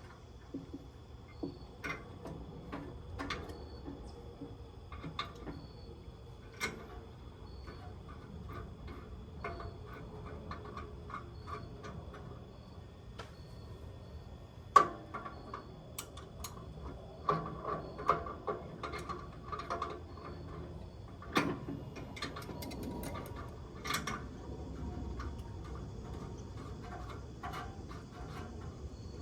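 Scattered light clicks and knocks of metal parts as a grill's gas hose fitting is threaded on and tightened, with one sharper knock about halfway through and a busier run of clicks shortly after.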